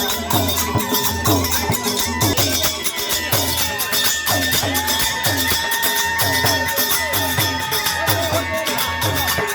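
Algoza, the Rajasthani paired folk flute, playing a wavering melody with long held notes over a steady drone, accompanied by a steady drum beat of about two strokes a second.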